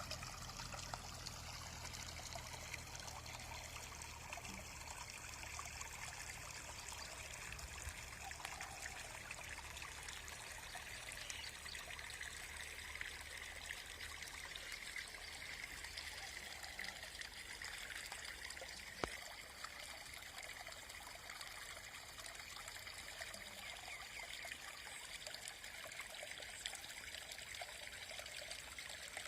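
Steady trickling of running water, with a faint low rumble that fades out over the first ten seconds. There is a single small click about nineteen seconds in.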